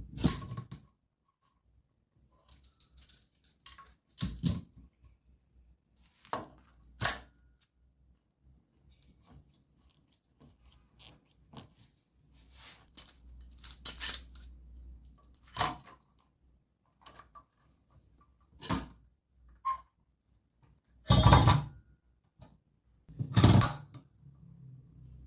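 Irregular metallic clinks and knocks of hand tools being handled and set down on a workbench, about ten separate strikes with pauses between; the loudest come near the end.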